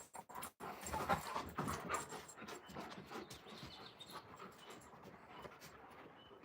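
Alaskan Malamute panting in irregular breathy puffs, with scattered small clicks; louder in the first couple of seconds, then fading.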